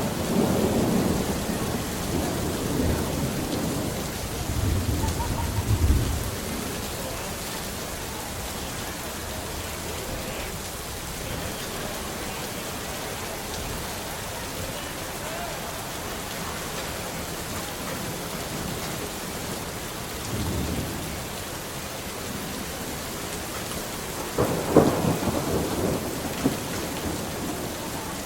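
Steady rain with rolling thunder: a long rumble through the first six seconds, a brief one about twenty seconds in, and a sharper, louder clap about twenty-five seconds in.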